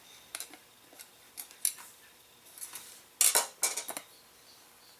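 Plastic router-table insert rings being handled and set against the cast-iron table, giving a series of sharp clicks and clatters with the loudest cluster about three seconds in.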